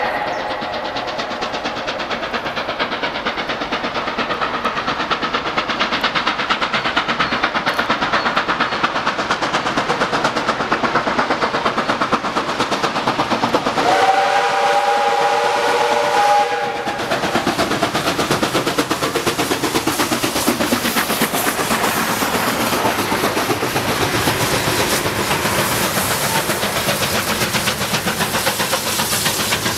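Steam locomotive running, its noise steady with a fast rhythmic beat, and its whistle sounding one chord of several notes for about two and a half seconds around the middle.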